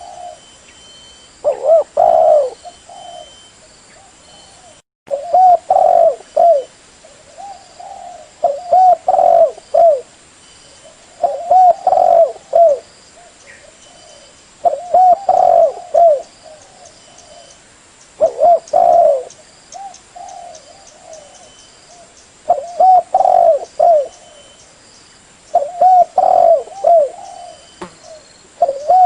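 Spotted dove (terkukur) cooing: a repeated phrase of several mellow, rolling coos, given about every three to four seconds.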